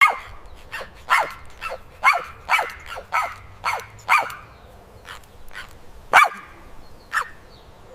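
A dog barking about ten times: short, sharp barks that drop in pitch, coming at uneven intervals, with the loudest about six seconds in.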